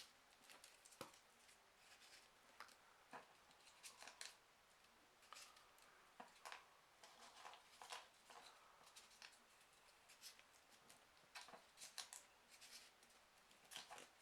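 Faint, irregular crisp rustles and small ticks of folded printer-paper pieces being handled and slotted into the pockets of a 3D origami (golden venture) model.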